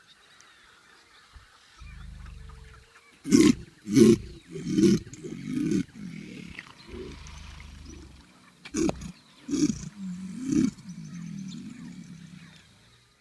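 A big cat roaring and growling: four loud calls in quick succession, then three more a few seconds later, with low rumbling between them.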